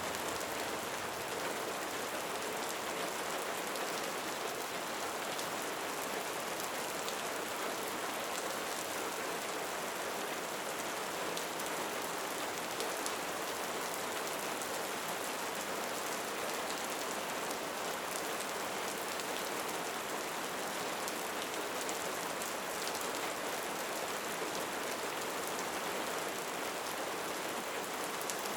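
Steady rain falling: an even hiss, flecked with many tiny drop clicks, that does not change.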